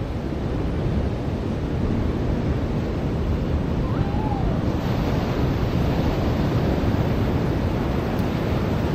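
Ocean surf washing onto a beach: a steady rushing wash with a low rumble, swelling as a wave comes in about five seconds in.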